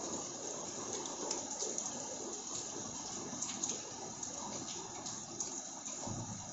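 Rain falling, a steady wash of water noise with scattered individual drops striking close by.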